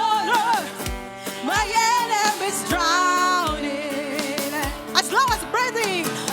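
Live gospel worship music: a praise band playing held chords over a steady kick-drum beat, with a voice singing the melody.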